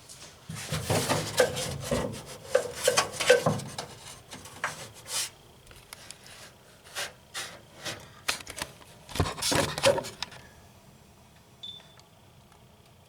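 Irregular rubbing, scraping and knocking of things being handled and moved, with scattered sharp clicks. It is loudest in the first few seconds and again about nine seconds in.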